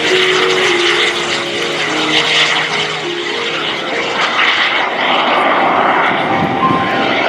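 Jet-powered Super Salto sailplane's small jet engine running in flight, a steady rushing jet noise.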